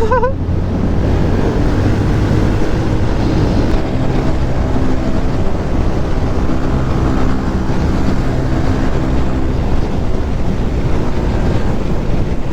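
Motorcycle engine running at a steady cruise, heard from the rider's position, with wind rushing over the microphone.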